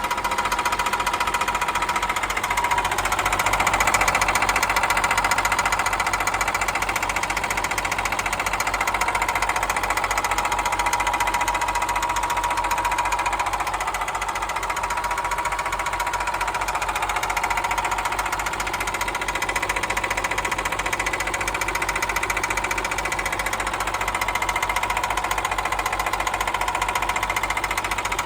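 Cat 316 marine diesel engine running steadily with a rapid, rhythmic knock, a knock that appeared after the engine's rebuild and install.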